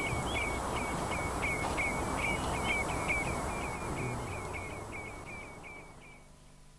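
A bird chirping in a rapid, even series of short calls, about three a second, over a steady outdoor hiss; it all fades out near the end.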